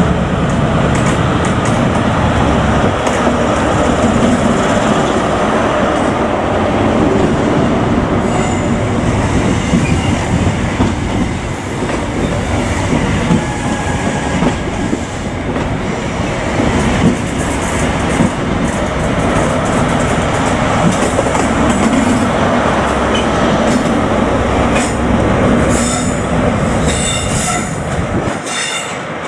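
Class 43 HST diesel power car and its Mark 3 coaches passing close by: the diesel engine running, then the coaches rolling past with wheel clatter and some high wheel squeal near the end.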